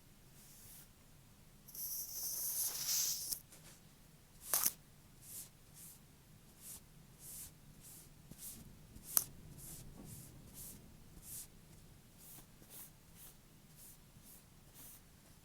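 Fake nails tapping on an object: soft, irregular taps about one or two a second, with a longer scratching stretch near two seconds in and two sharper clicks.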